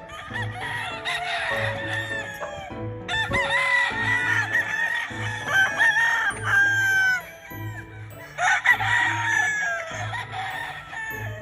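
Gamefowl roosters crowing, several calls overlapping in three bouts, over background music with a steady beat.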